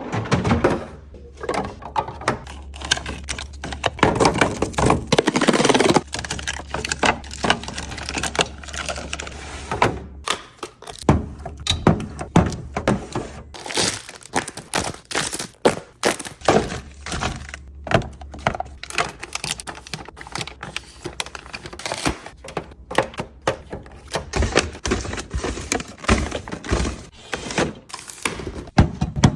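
Steady run of small knocks, clicks and taps from snack packages and plastic containers being handled and set down while stocking a fridge. There is a denser stretch of rustling a few seconds in, and a low steady hum runs under much of it.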